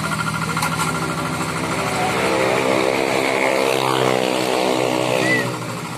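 Paddy-field hand tractor's engine running steadily while working the field. Its pitch shifts and the sound swells around the middle, easing off near the end.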